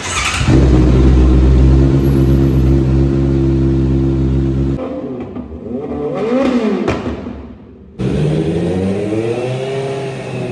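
Inline-four engine of a 2025 Honda CBR650R sportbike running loud through its exhaust. It holds a steady high engine speed for about four seconds, then after a cut it is revved twice, the pitch climbing and falling each time.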